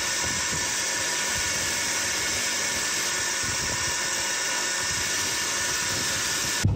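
Steady whirring of a motor-driven machine, cutting off suddenly near the end.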